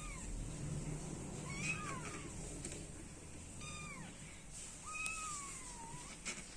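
Kittens meowing: about four high-pitched meows a second or so apart, the last one longer and falling in pitch.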